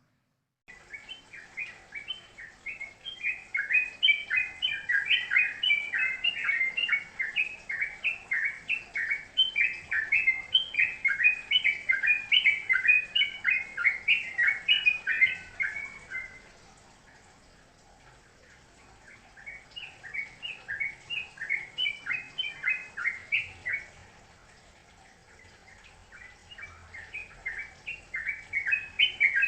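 A songbird singing long runs of rapid chattering notes, broken by two short pauses.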